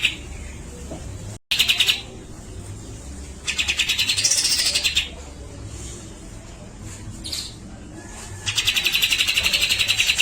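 Grey-cheeked bulbul (cucak jenggot) singing in fast rattling trills: three loud bursts, the middle one with a note rising and falling over it and the longest near the end, with a short call between them.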